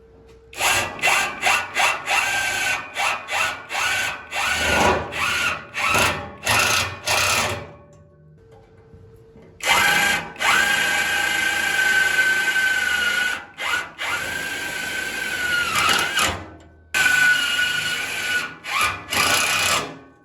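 Electric drill triggered in a quick series of short bursts, then run in longer stretches of several seconds, its motor whine steady and sagging as each run ends.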